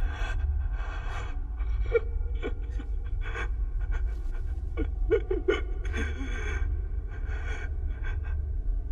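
A person breathing heavily in ragged gasps, with a few short strained voice sounds near the middle, over a steady low rumble.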